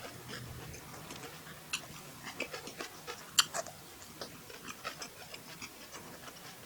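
Close-miked eating sounds: irregular small wet clicks and smacks of chewing and mouth noises, with one sharper click about three and a half seconds in.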